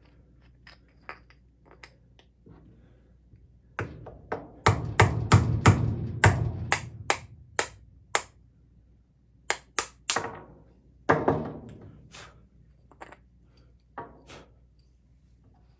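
A series of sharp taps and knocks on the wooden knob parts. A quick run of strikes comes about five seconds in, then scattered single knocks.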